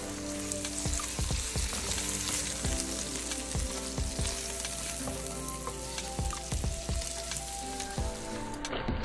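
Egg, shrimp and vegetables sizzling in a hot wok while a spatula stirs and scrapes them, with repeated short knocks of the spatula against the pan. The sizzle cuts off near the end.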